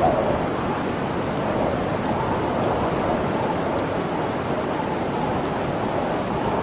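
Howling blizzard wind blowing steadily, a dense rush of noise with a faint howl that wavers up and down in pitch.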